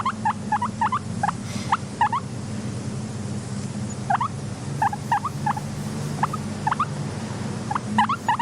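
Guinea pig squeaking: short rising squeaks in quick clusters, with a lull about a third of the way in and another near the end, over a low steady hum.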